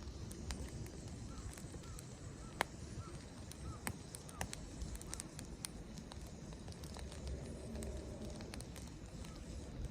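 Wood fire crackling, with scattered sharp pops, the loudest about two and a half seconds in. A bird calls faintly in short repeated chirps over it.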